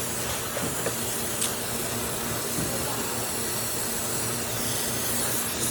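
Steady hissing noise with a faint low hum underneath and a few light ticks.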